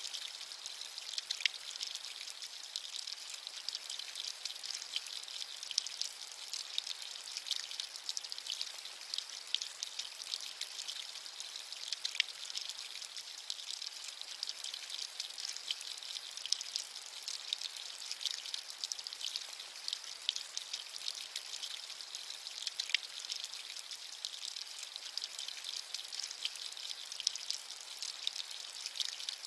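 Steady rain with close, fine raindrops pattering, a continuous high hiss dotted with many small drop ticks and almost no low rumble.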